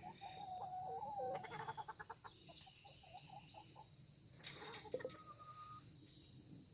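Chickens softly clucking: one drawn-out call in the first second or so, then a run of short, quick clucks and small calls.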